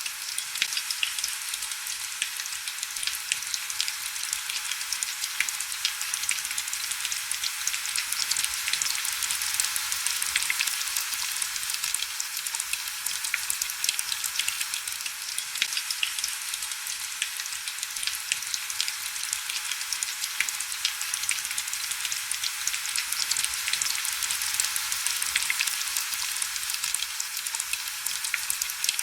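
Heavy rain falling: a dense, steady hiss full of small crackling drop ticks, with almost no low rumble.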